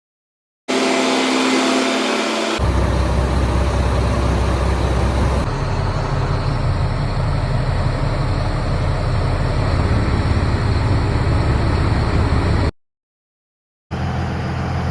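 Mack Granite truck's diesel engine running steadily, in short clips joined by hard cuts. The first couple of seconds carry a higher humming tone, and the sound drops out for about a second near the end.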